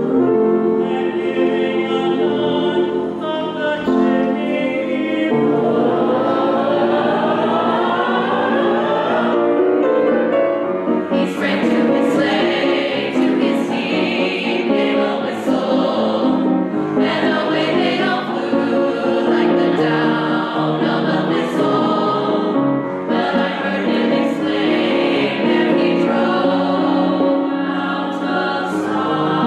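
Choir singing a Christmas carol, many voices together in sustained pitched lines.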